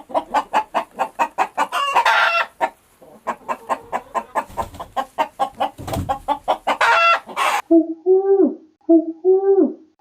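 Chicken clucking rapidly, about five clucks a second, with two louder drawn-out squawks. About seven and a half seconds in it cuts off suddenly, and a different bird's two-note hooting calls follow, repeating about once a second.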